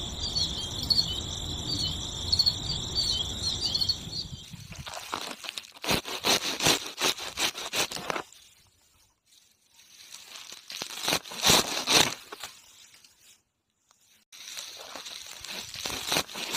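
Crickets chirping for the first few seconds. Then come rustling and snipping as green grass blades are cut by hand with a small sickle and gathered, in three spells separated by brief silences.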